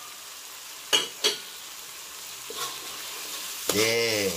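Spice paste sizzling in hot oil in a wok while a metal spatula stirs in curry powder, knocking sharply against the wok twice about a second in. Near the end a man's voice sounds briefly, louder than the frying.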